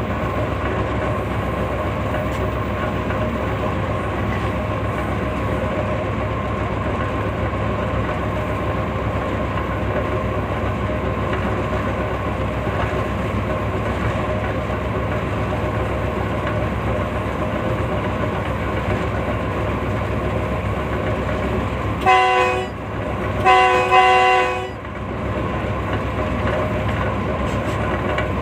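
Train running steadily, a continuous rumble with a faint steady hum. Near the end the locomotive's horn sounds twice: a short blast, then a longer one.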